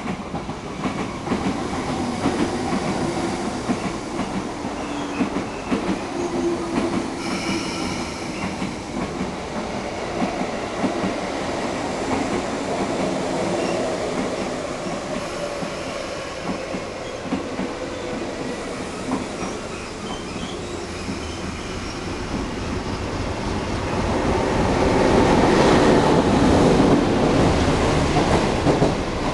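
A DF11 diesel locomotive and its string of 25Z passenger coaches running through at speed, with a dense, rapid clatter of wheels over the rail joints. The sound comes in suddenly at the start and grows louder again about five seconds before the end.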